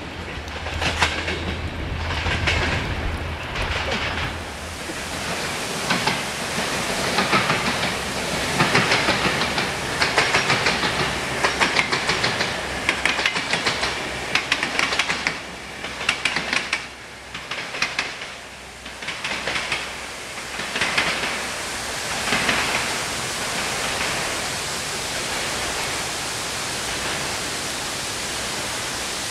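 A passenger train rolling past, its wheels clattering rhythmically over the rail joints, loudest in the middle and fading away after about twenty seconds. Then a steady hiss of rain.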